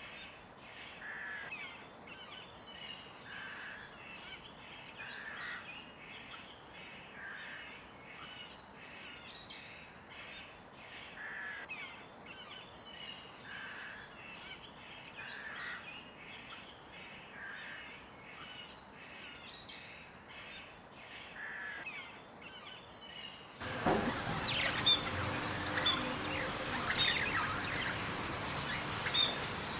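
Small songbirds chirping and trilling, the same phrases coming round about every four seconds. About three-quarters of the way through, it cuts abruptly to a louder recording of sharp bird chirps.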